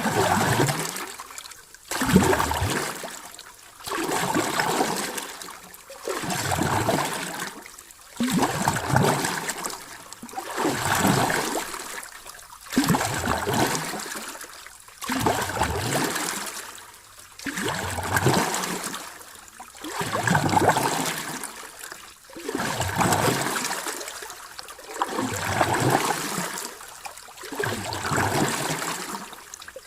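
Ocean waves: a rush of surf that swells and ebbs over and over, about every two seconds.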